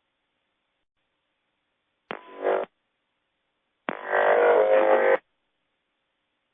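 Two short bursts of buzzy, garbled aircraft-radio audio, with no clear words. The first lasts about half a second and the second just over a second. Each starts and stops abruptly.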